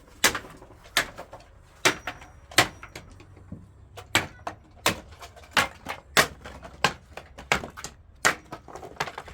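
A steady series of sharp knocks, about three every two seconds, some louder than others, at an even working pace like blows struck during building work.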